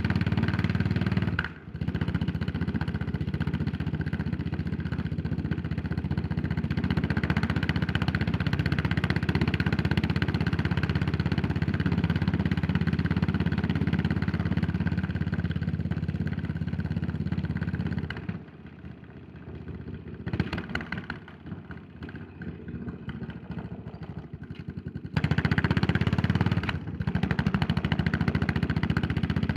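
Yamaha SR400's air-cooled single-cylinder four-stroke engine running under way. The engine note drops out sharply for a moment about a second and a half in and again near the end. A quieter, uneven stretch comes between about 18 and 25 seconds in, before it picks up strongly again.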